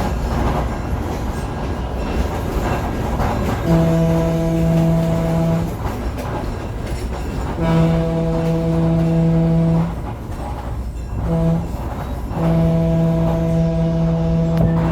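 Train rumbling along the track while its horn sounds four blasts, long, long, short, long, starting about four seconds in: the standard warning for a grade crossing.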